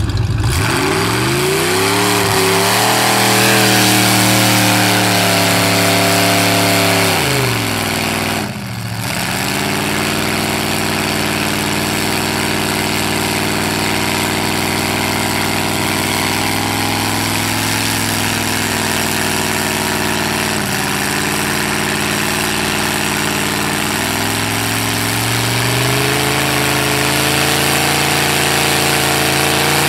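Mud-bog truck engine running hard at high revs, its pitch climbing and holding. About eight seconds in the revs drop sharply for a moment, then climb again and rise once more near the end.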